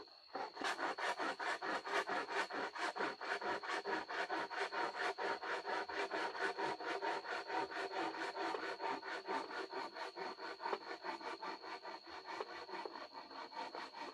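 Hand saw cutting wood in steady back-and-forth strokes, about four a second, starting about half a second in.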